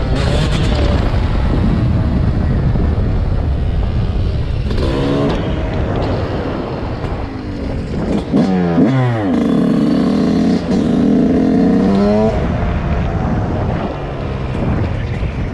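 Dirt bike engine over a heavy rumble of wind noise. About eight seconds in, the engine revs up and holds high for a few seconds, then drops back.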